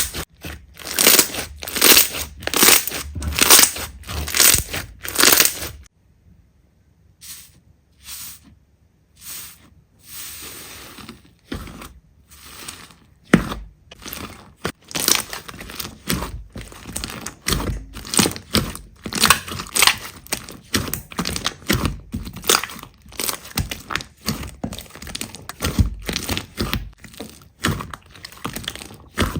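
Slime being pressed and worked by hand, making repeated short crackles and pops. At first there are about two presses a second; after a lull of a few seconds, faster and denser crackling follows.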